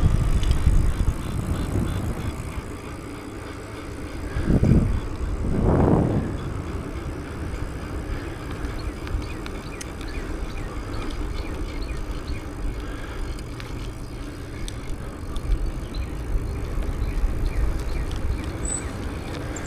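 Bicycle ride heard from the bike: steady wind rumble on the microphone and tyre noise along a paved path, with two louder swells about four and six seconds in.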